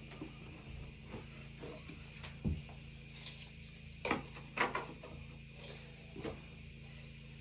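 A few scattered light knocks and clicks, as of wood or small objects being handled, over a faint steady hum; the loudest two come close together a little past the middle.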